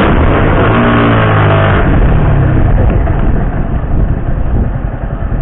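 A vehicle engine revving while under way: its pitch shifts up and down during the first two seconds, then gives way to a steady rumble of road and wind noise.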